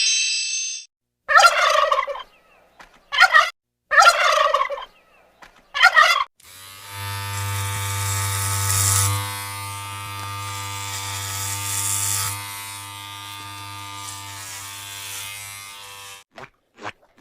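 Four short turkey gobbles, then a steady electric buzz like an electric razor running for about nine seconds. A quick run of clicks follows near the end.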